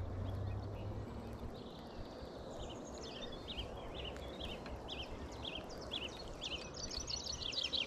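A songbird singing: a run of short, high, falling chirps, one or two a second, ending in a quicker, higher trill near the end, over faint steady outdoor background noise.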